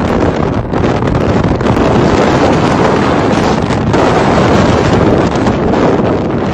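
Strong hurricane wind blasting across the microphone, a loud steady roar of rushing air with a few brief dips.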